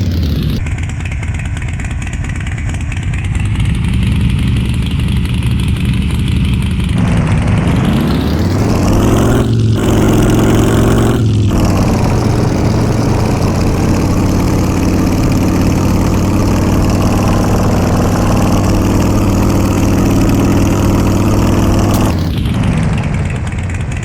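Yamaha XJ6 600 cc inline-four motorcycle engine under way. It accelerates with two quick gear changes about 9 and 11 seconds in, holds a steady cruise, then rolls off and drops in pitch near the end.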